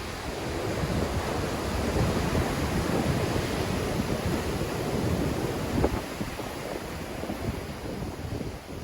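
Black Sea waves surging and breaking in strong wind, with the wind buffeting the microphone as a low rumble. A brief sharp burst about six seconds in.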